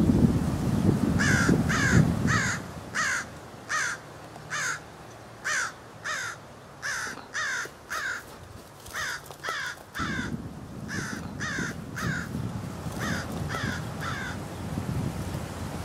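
Bird giving short, harsh calls over and over, in quick runs of three or four, over a low wind rumble.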